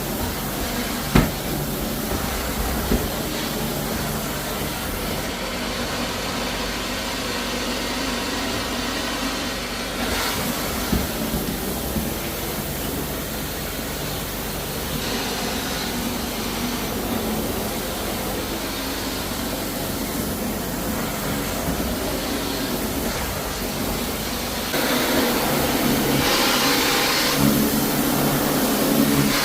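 Floor-cleaning machine running steadily with a vacuum-like whir as the travertine is cleaned. It gets louder about 25 seconds in, with a few faint knocks near the start.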